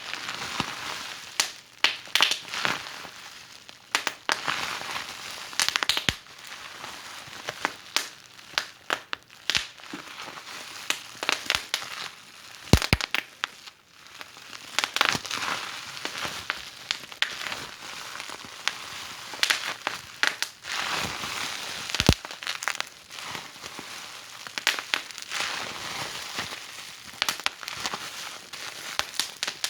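Wood fire burning in a fireplace, crackling with frequent irregular sharp pops over a soft steady hiss.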